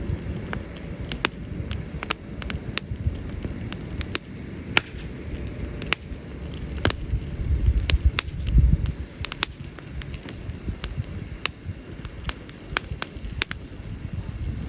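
Campfire of burning wood crackling, with sharp irregular pops over a low rumble that swells briefly about eight seconds in.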